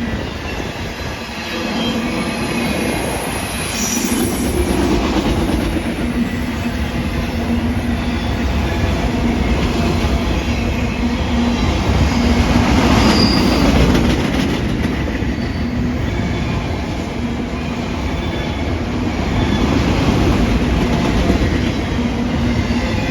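Freight cars of a mixed manifest train rolling past: steady wheel-on-rail rumble, with a few short, high wheel squeals.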